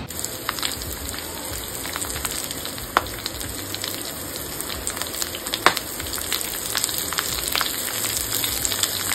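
Masala-coated raw banana slices frying in coconut oil on a banana leaf in a pan. The oil sizzles steadily, with scattered crackles and pops.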